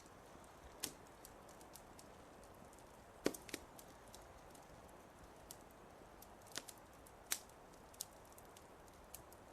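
Wood fire crackling: irregular sharp pops and snaps over a faint steady hiss. The loudest pops come about a third of the way in and again about three-quarters in.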